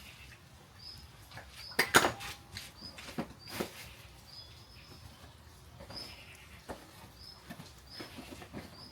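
Wood fire crackling with irregular sharp pops, the loudest a quick cluster about two seconds in, over short high squeaks that recur every second or so.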